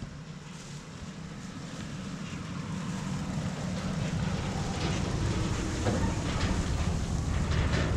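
Wind rumbling on the microphone, growing louder over the first four seconds and then holding steady.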